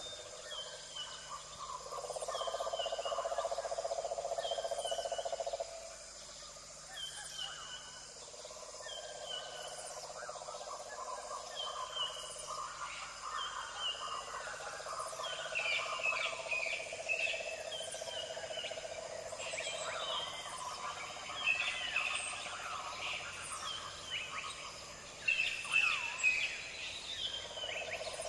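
Many wild birds chirping and calling together, a dense chorus of short calls and trills that grows busier about halfway through. Under it a steady droning hum comes and goes in stretches of several seconds.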